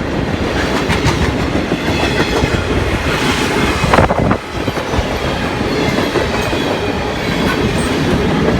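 Railcars of a military freight train rolling past, steel wheels clacking over the rail joints, with a brief louder burst about four seconds in.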